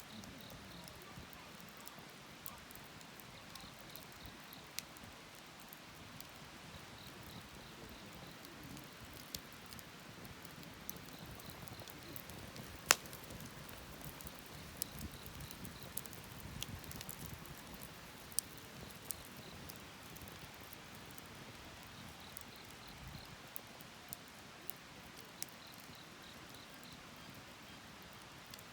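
Wood fire crackling faintly, with scattered sharp pops and one much louder pop about halfway through.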